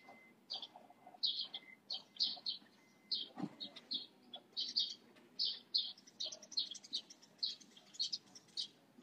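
Birds chirping: a continuous run of short, high chirps, two or three a second.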